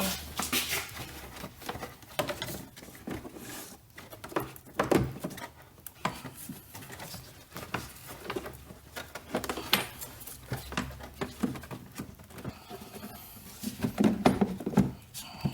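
Irregular scraping, knocking and plastic creaking as a new pleated engine air filter is wiggled into the plastic air filter housing of a 2014 Hyundai Sonata, with a denser run of knocks near the end.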